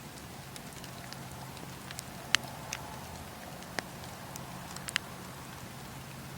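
Wood fire in a fireplace crackling: a steady low hiss with a few scattered sharp pops, the loudest a little over two seconds in and others near four and five seconds.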